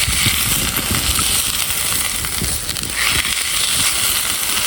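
Blanched, still-wet lamb's quarters greens sizzling in hot oil in a cast iron skillet over a campfire; the water left on the greens is what makes them hiss. The sizzle grows a little louder about three seconds in.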